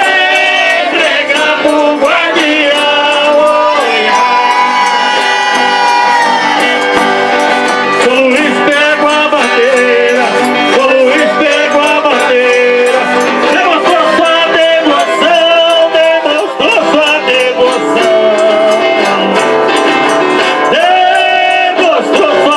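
Folk music from a Folia de Reis group: an eight-bass button accordion (oito baixos) playing with a tambourine, and voices singing.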